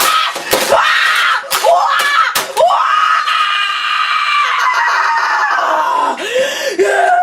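A boy screaming in rage: several sharp smacks and yells in the first couple of seconds, then one long, high-pitched scream held for about three seconds that drops away, followed by shorter yelps.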